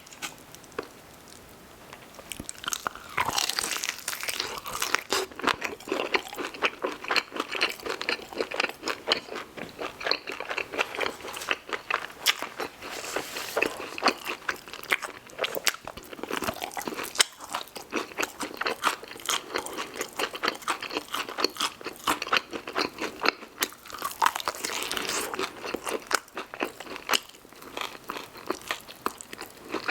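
Close-miked eating: crunching bites and chewing of fried food, dense and irregular, starting a few seconds in after a brief lull.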